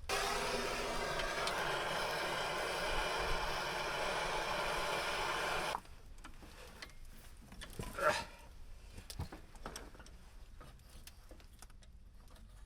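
Handheld torch burning with a steady roaring hiss for about six seconds as it thaws ice from frozen bolt holes, then cutting off suddenly. Quieter metal clatter follows, with one sharper knock.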